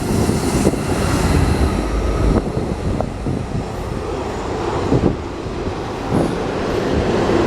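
Train passing close by: a steady rumble of wheels on rail, with a few sharp clacks.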